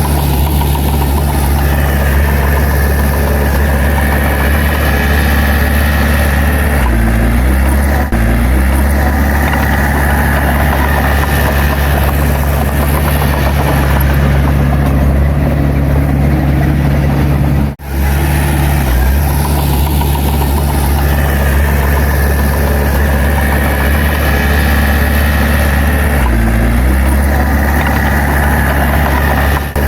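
Heavy earthmoving machine's diesel engine running steadily. Its speed dips and recovers about a quarter of the way in and again near the end, with a momentary break a little past the middle.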